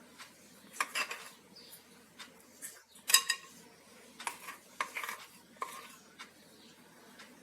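Kitchen utensil clinking and scraping against a bowl while cake batter is spooned out: a series of irregular clinks and knocks, the loudest about three seconds in.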